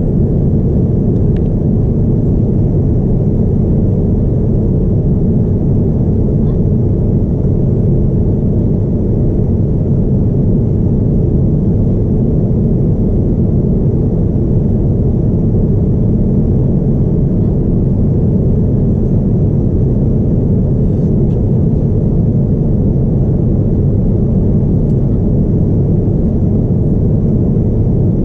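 Steady low rumble of airflow and engine noise inside the cabin of a Boeing 787-9 airliner, unchanging throughout, with a faint steady high whine over it.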